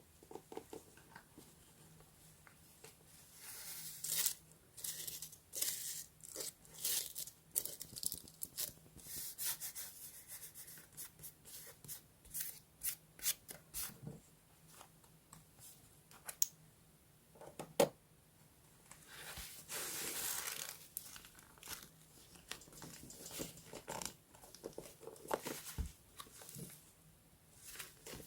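Paper being torn and crinkled by hand in many short rips and rustles, with a longer stretch of tearing about twenty seconds in.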